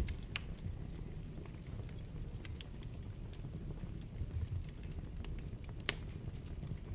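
Wood fire burning in a fireplace: a steady low rumble of flames with irregular sharp crackles and pops, the loudest about half a second, two and a half seconds and six seconds in.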